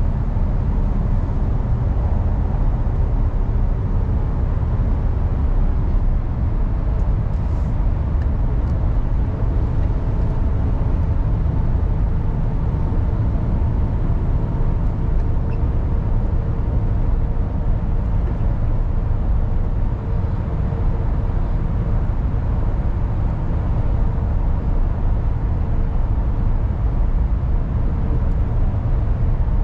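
Mercedes Actros truck's diesel engine and road noise as a steady low drone, heard from inside the cab while driving.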